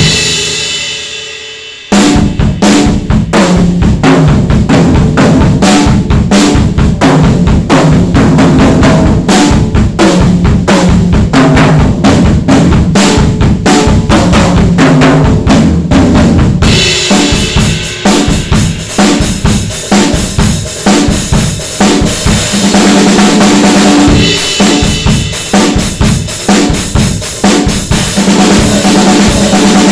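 Sound Percussion Labs Unity 2 drum kit with Soultone NOA cymbals being played. A ringing decay fades for about two seconds, then steady, dense kick and snare playing resumes. A little past halfway the cymbals wash in louder and stay up.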